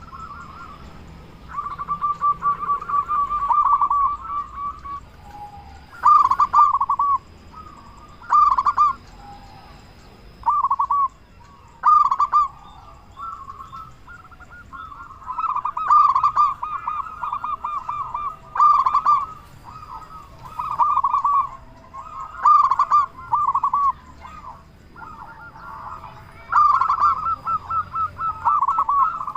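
Zebra dove (perkutut) cooing: phrase after phrase of quick rolling coo notes, each lasting one to three seconds, with short pauses between. A faint steady high whine runs underneath at times.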